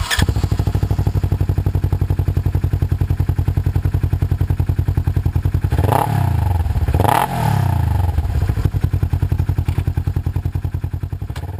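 Polaris RZR XP 900's parallel-twin engine idling through a Vance & Hines DragonFire dual exhaust with an even, rapid pulse. About six seconds in it is revved in two quick blips, pitch rising and falling each time, then settles back to idle.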